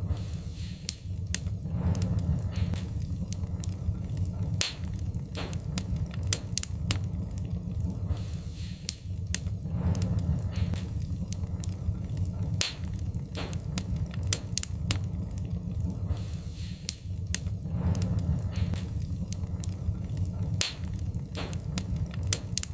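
Wood fire crackling in a fireplace: frequent, irregular sharp pops and snaps of burning wood over a steady low rumble.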